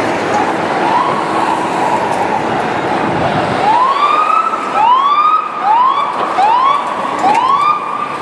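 Fire truck siren sounding over engine and road noise. It starts with a slow rise and a held wail, then from about halfway through switches to quick yelps that rise over and over, a little faster than once a second. This sweeping wail-and-yelp pattern is the American style, not the German two-tone horn.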